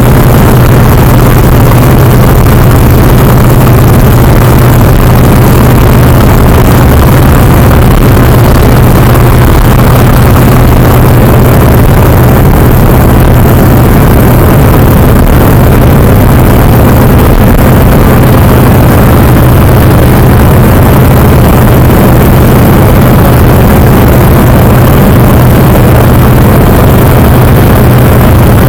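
Antonov An-2's nine-cylinder radial engine and propeller running, very loud and steady, a deep drone that holds the same pitch throughout.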